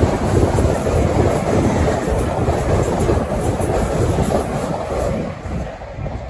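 LNER Class 801 Azuma train passing: a loud, steady rush of wheel and rail noise with a light clickety-clack, easing off near the end.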